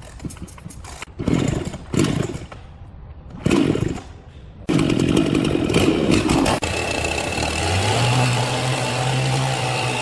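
Small petrol engine being started: three short bursts of cranking, then it catches about five seconds in and runs steadily, settling to an even engine note near the end.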